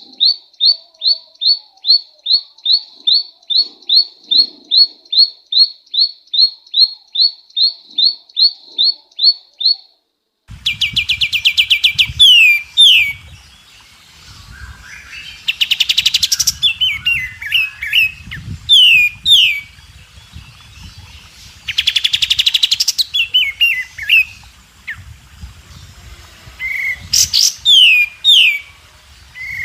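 Songbird calls: a steady series of sharp, high chirps, about two a second, for the first ten seconds. Then a different bird's song takes over, with rapid buzzy trills and quick down-slurred whistles over a low background rumble.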